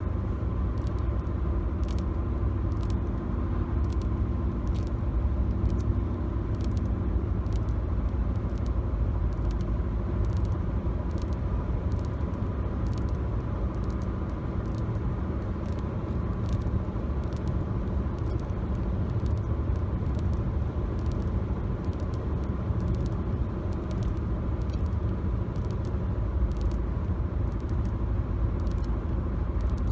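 Steady low road and engine rumble inside a moving car's cabin, recorded on a phone. Light, sharp fingernail taps on the car's interior trim click irregularly, about once or twice a second.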